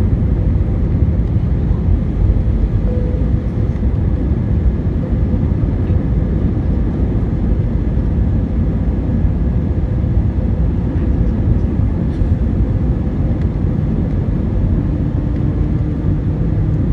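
Steady low rumble of jet airliner cabin noise as the plane descends to land, with a faint steady hum above it.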